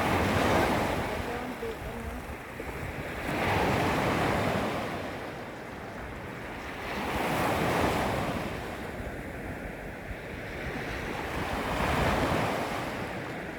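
Small sea waves lapping against the shoreline, each wash swelling and fading about every four seconds, with wind buffeting the microphone.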